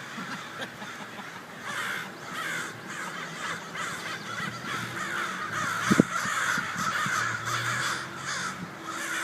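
A large flock of birds calling all at once: a dense, continuous chatter of many overlapping calls, with a single sharp knock about six seconds in.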